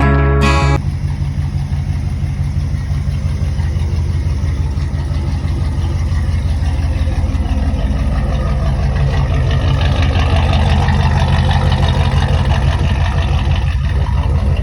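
A 1968 Ford F250 pickup's engine running steadily with an even, rapid firing pulse, getting a little louder in the second half.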